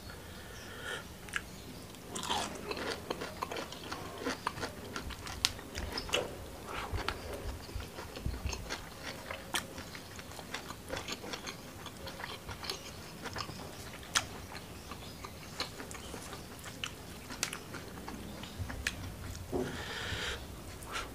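Close-miked chewing and crunching of boiled bamboo shoot with chili sambal, with many short wet mouth clicks and crunches.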